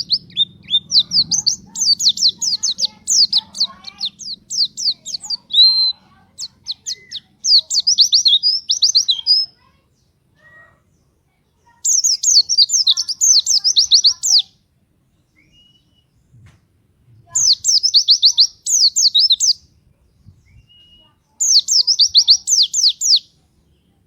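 White-eye (pleci) singing in fast runs of high, quick chirps: a long run at the start, then bursts of about two seconds each, separated by short pauses.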